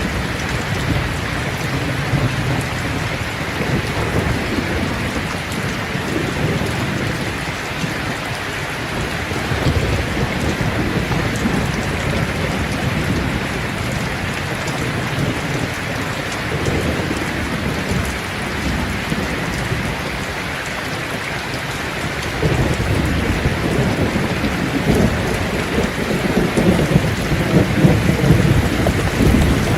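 Steady rain pouring down with low thunder rolling underneath. The rumble swells now and then and grows louder over the last several seconds.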